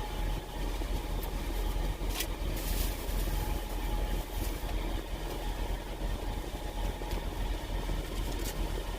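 Semi truck's diesel engine idling steadily, heard from inside the cab as a low rumble, with a few short clicks or rustles of handling.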